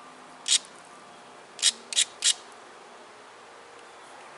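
Abrading stone scraped across the sharp edge of a chert flake in short, quick strokes, grinding the edge smooth before pressure flaking. There is one stroke about half a second in, then three in quick succession around two seconds.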